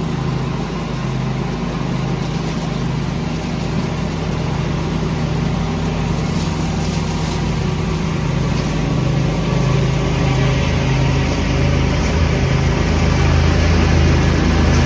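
Small engine running steadily while leaves are vacuumed up, a low engine hum under a broad rushing hiss, growing slightly louder toward the end.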